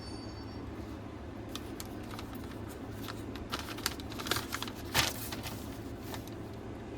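Sofa cushions and covers being handled: a scatter of rustles and small clicks, the loudest about five seconds in, over a steady low background noise.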